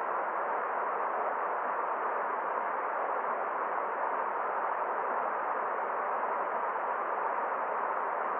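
Forest stream water flowing in a steady, even rush, with no separate splashes or other sounds standing out.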